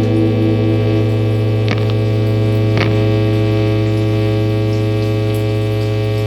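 Loud, steady electrical mains hum with many overtones. A last pulsing tone fades out in the first second, and two sharp clicks come about a second apart.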